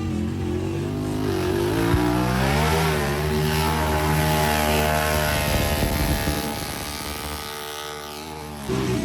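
Off-road vehicle engine revving: the pitch climbs about two seconds in, holds at high revs for a few seconds, then eases off and fades.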